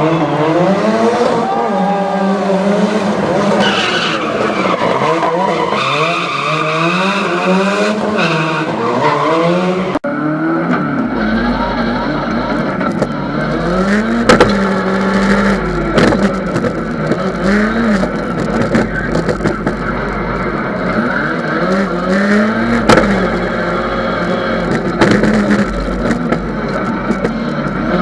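Ford Sierra Cosworth Group A rally car's turbocharged four-cylinder engine revving hard and dropping back over and over as it is driven flat out. A few sharp cracks come in the second half.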